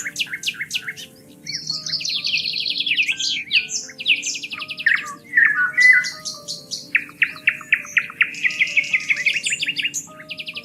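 Songbirds singing continuously in rapid trills and chirps, several song phrases overlapping, over soft background music of held low notes.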